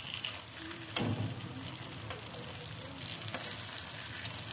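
Kuzhi paniyaram frying in oil in the moulds of a paniyaram pan on low flame: a steady sizzle. A knock about a second in and light clicks come from a fork and knife turning the balls against the pan.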